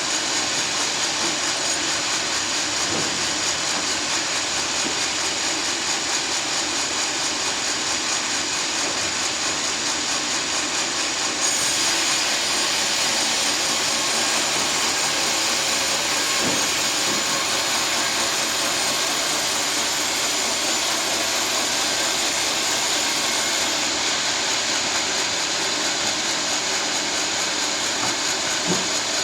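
Sawmill running steadily as it saws a teak log into planks, a continuous machine noise. For a stretch in the middle the sound turns harsher and hissier.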